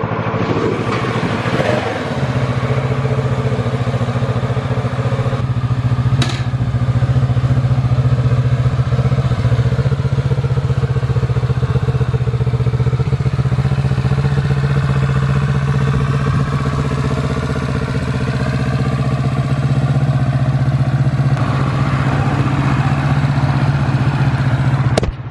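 A 2020 Kawasaki Z650's parallel-twin engine idling steadily, after a brief change in engine speed in the first couple of seconds. One sharp click about six seconds in.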